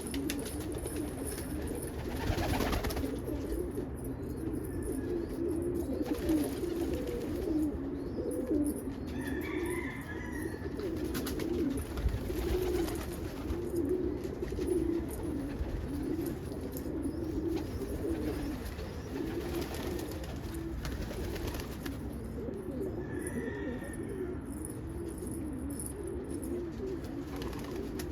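Pigeons cooing continuously, several calls overlapping in a steady low warble. A brief higher bird call cuts in twice.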